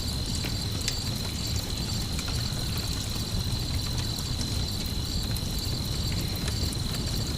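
Crickets chirping steadily over a crackling campfire, with scattered sharp pops and a low steady rumble underneath.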